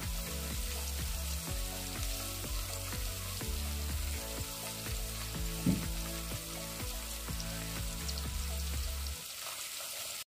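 Smoked fish frying in hot palm oil: a steady sizzle, with one light knock a little past halfway. Background music with low notes plays underneath, and everything cuts off suddenly near the end.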